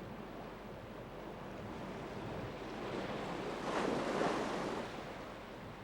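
Sea waves washing on a shore, with one wave swelling up and breaking louder about four seconds in, then receding.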